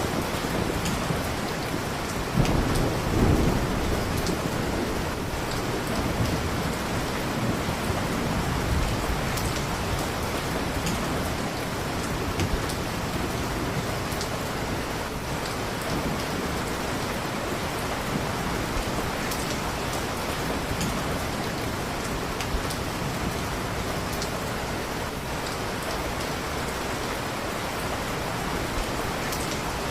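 Steady heavy rain falling on a surface, with a low rumble of thunder swelling a few seconds in.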